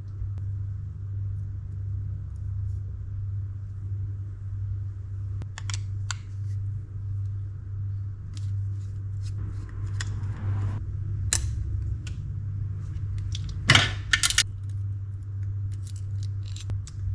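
Small clicks and clinks of Daiwa Catalina 6500H spinning reel parts and tools being handled during a teardown, scattered taps with a louder cluster near the end, over a steady low hum.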